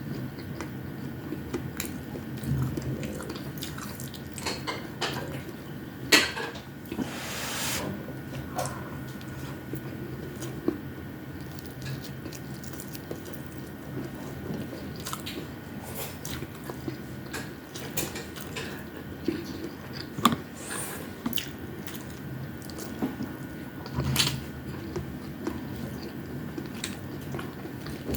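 Close-up mukbang eating sounds: wet chewing of fried fish and rice, with scattered sharp mouth clicks and smacks at irregular intervals. A faint steady hum runs underneath.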